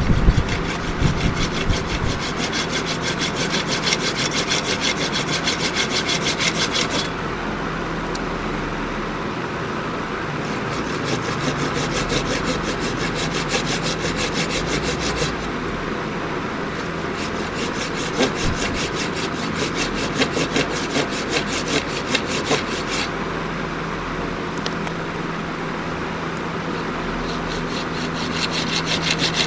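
Oak being worked by hand with fast, even back-and-forth strokes of a cutting or abrading tool, in long runs with short pauses between them. A few heavy knocks come at the start, and a faint steady hum lies under it all.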